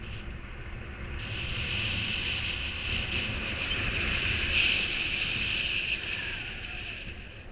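Wind rushing over the microphone during a mini-paraglider flight in strong wind, with a low buffeting rumble and a hiss that swells about a second in and eases near the end.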